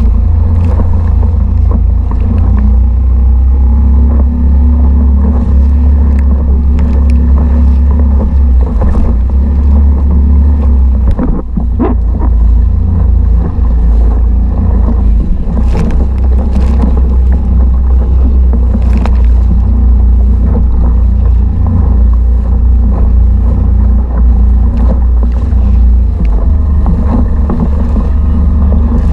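Mercury 3.5 hp outboard motor running at a steady speed, pushing the kayak along, with a brief dip in its note about eleven seconds in.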